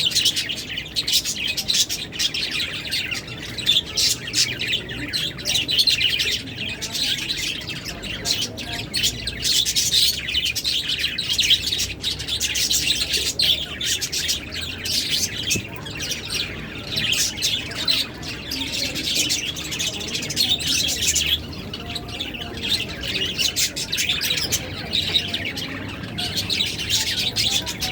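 Lovebirds chirping together, a dense continuous chatter of overlapping high calls.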